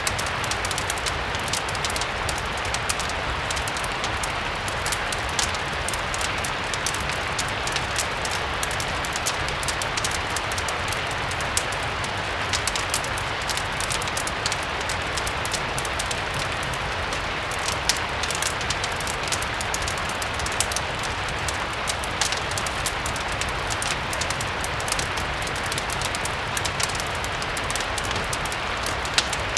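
Steady rain ambience blended with a crackling fireplace: an even rush of rain with a low rumble under it, and many small sharp crackles and ticks scattered throughout.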